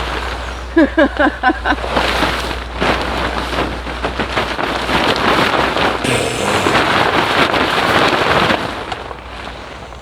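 Rustling and crinkling of rain-wet tent nylon being handled, a dense crackly noise that starts about two seconds in and fades near the end, after a brief run of short pitched squeaks about a second in.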